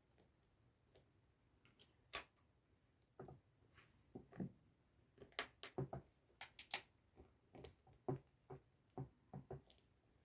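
Slime being handled by hand, giving irregular sticky clicks and small pops, one or two a second.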